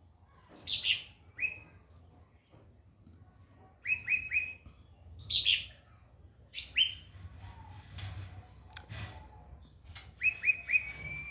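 A songbird calling in separate phrases: several sharp, fast downward-sweeping calls and short bursts of three quick chirps, with quiet gaps between.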